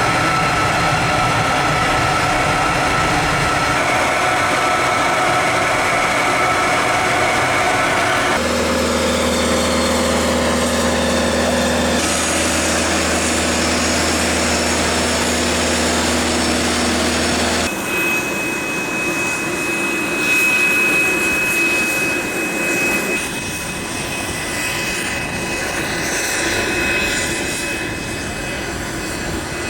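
Embraer Phenom 300 twin-turbofan jet running, a steady whine over a rumble. The engine sound changes abruptly every few seconds as edited shots cut from one to the next.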